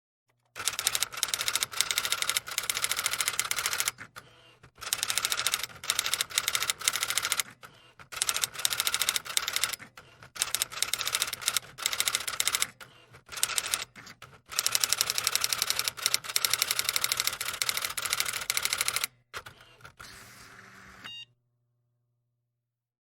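Typing: fast runs of sharp key clicks in bursts of a second or three, with short pauses between, over a faint low hum. It stops about 21 seconds in.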